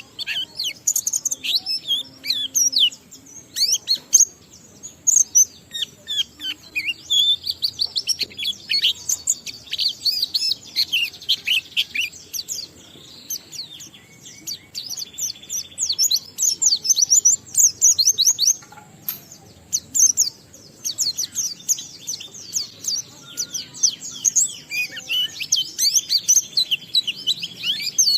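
White-eye (pleci) in full song: a long, rapid, high twittering of quick downward-slurred notes, broken only by brief pauses.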